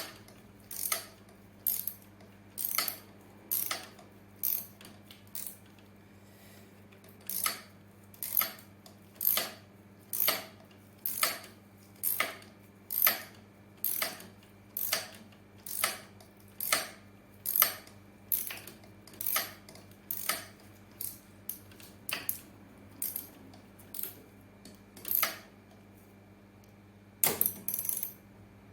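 A run of sharp mechanical clicks, roughly one a second, with a short pause about six seconds in, over a steady low hum.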